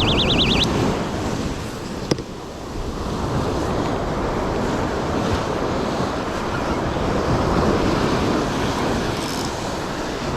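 Wind on the microphone and surf washing steadily. A high warbling buzz stops within the first second, and a single sharp click comes about two seconds in.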